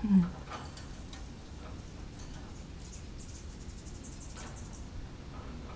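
A short low falling note, then faint scattered clicks and taps of a Goffin's cockatoo's beak working at her cage. About three seconds in there is a quick run of high, short chirps.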